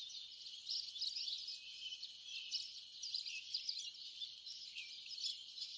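Faint, high-pitched chirping: many short calls overlapping over a soft hiss.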